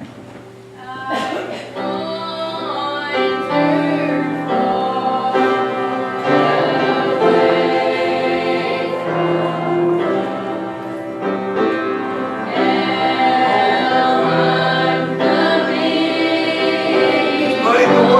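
A group of voices singing a slow gospel hymn over long held chords, swelling in about a second in.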